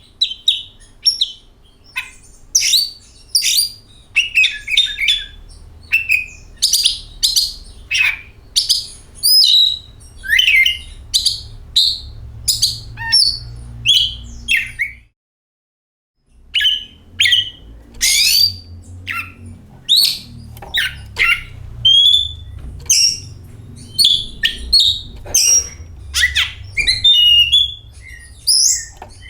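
Oriental magpie-robin (kacer) singing in full voice: a fast, varied run of whistles, chirps and harsh notes over a low background rumble, broken by a sudden second-long cut to silence about halfway.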